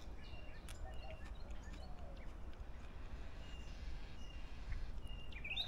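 Quiet outdoor ambience: a few faint, short bird chirps over a low steady background rumble, with a few soft clicks in the first second or so.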